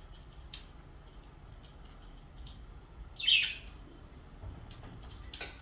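A budgerigar giving one short, loud chirping call about three seconds in, with a few faint clicks around it.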